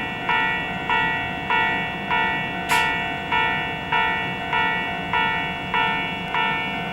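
Railway level-crossing warning bell ringing in an even rhythm, a little under two strikes a second, each strike ringing on in several tones before the next. A brief sharp click just under three seconds in.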